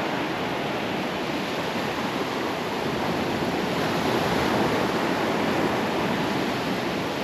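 Gulf surf breaking and washing steadily onto a sandy beach, swelling slightly in the middle.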